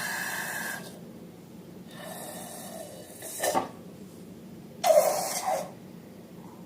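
Air hissing out of balloons in short bursts, the loudest a little before five seconds in, with a sharp click at about three and a half seconds.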